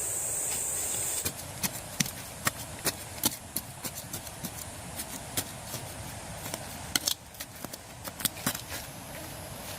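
A steady high-pitched buzz that stops about a second in, followed by irregular sharp knocks and clicks.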